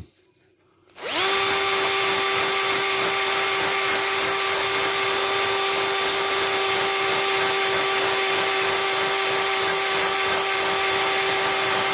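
Electric drill spinning a drill brush against rusty sissy bar springs to take off surface corrosion. It starts about a second in, runs at a steady speed and pitch, and stops abruptly at the end.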